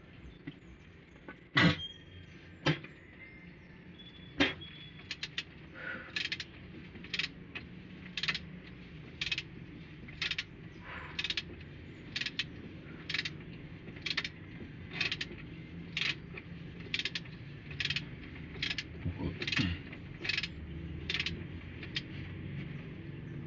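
Sharp metallic clicks from work on a Nissan TD27 diesel engine's cylinder head: a few loud scattered clicks, then a steady run of about one click a second that stops near the end.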